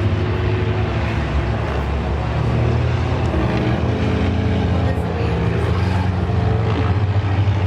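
A field of claimer stock cars running together at low, even speed before the start, a steady low engine drone with no revving.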